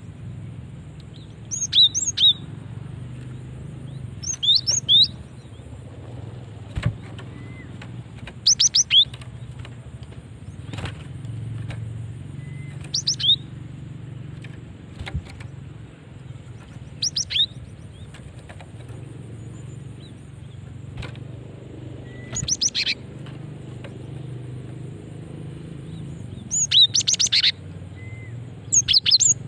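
Female cinereous tit (gelatik batu) calling, a female call used to draw males. It gives short clusters of two or three sharp, high, downward-curving notes every few seconds, over a steady low background hum.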